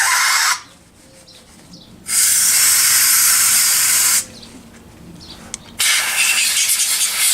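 Pressurised spray hissing in three bursts, the first cut off about half a second in, the second lasting about two seconds, the third starting about six seconds in: parts of a single-barrel carburetor being blown or sprayed clean.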